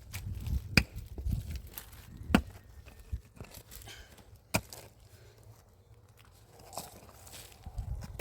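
Pickaxe striking hard earth and stones, three sharp blows a second or two apart, with scraping and crumbling soil between them.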